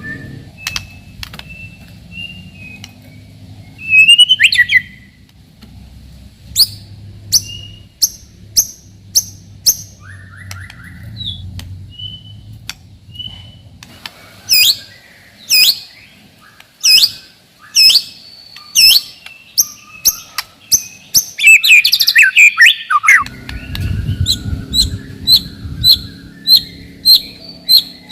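White-rumped shama (murai batu) singing: loud, sharp whistled notes, spaced at first and then in quick repeated series, ending in a fast run of notes. A low hum sits under the song for the last few seconds.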